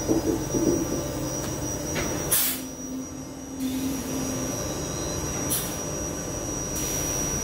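Queensland Rail Tilt Train running slowly past the platform, a steady low rumble under a thin high whine. Short bursts of hiss come about two and a half seconds in, again past five seconds, and near the end.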